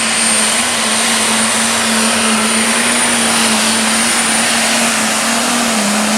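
International diesel super stock pulling tractor running flat out under load down the track. A loud, steady engine drone carries a high, steady turbo whine above it.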